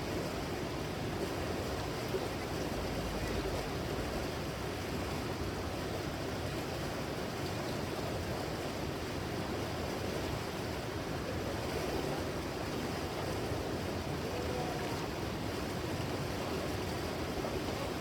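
Mountain stream rushing steadily over rocks, an even rush of water without a break.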